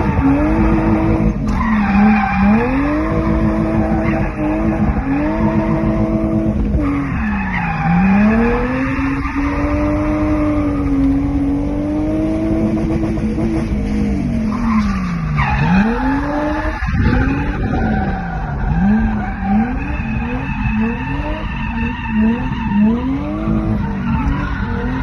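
BMW 323ti Compact's inline-six engine revving hard through drifts, heard from inside the car: the revs rise and fall every second or two, with a long stretch held high in the middle, over tyre squeal and skidding.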